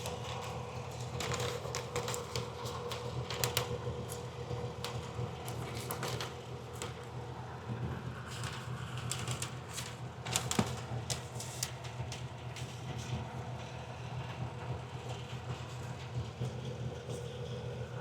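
Semi-truck diesel engine idling steadily, with irregular clicks and light rattles over it.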